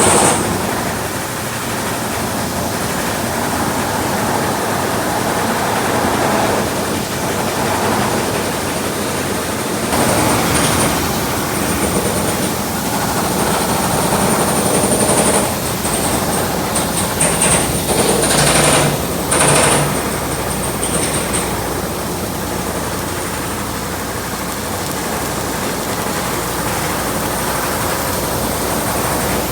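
Stick-welding (shielded metal arc) arc crackling and hissing steadily, with louder, uneven stretches of high hiss about midway through.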